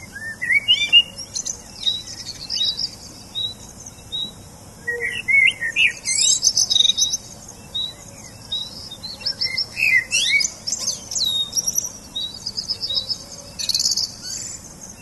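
Several small songbirds chirping and twittering at once, one of them repeating a short high note at a steady pace.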